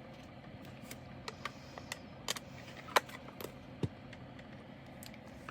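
Scattered light clicks and taps of small plastic items being handled: diamond painting resin drills and their bag and storage container, as the last drills are tipped out of a bag. One sharper click about three seconds in is the loudest.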